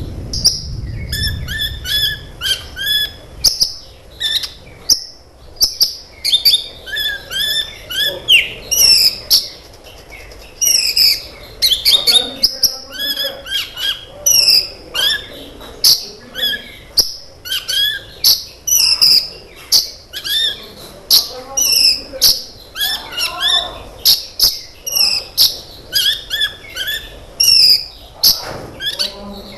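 Sunbird (the 'kolibri ninja' of Indonesian bird-keepers) in full song: quick bursts of high, sharp twittering and chirping notes, about one phrase a second.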